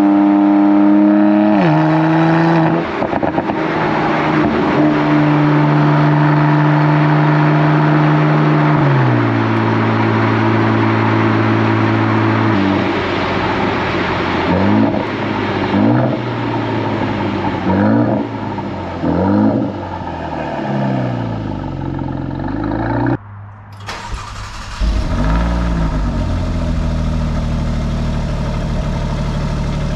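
Mercedes-AMG C43's twin-turbo V6 through its factory Performance Exhaust, heard from a bumper-mounted camera while driving. It holds steady notes that shift in steps, then rises and falls in pitch several times. About 23 seconds in the sound cuts off, and a stock Alfa Romeo Giulia Quadrifoglio's twin-turbo V6 cold-starts with a surge of revs and settles into a steady idle.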